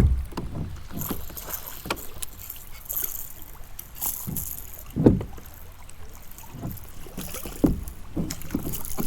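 Water splashing and dripping around a kayak, with a few dull thumps, the loudest about halfway through.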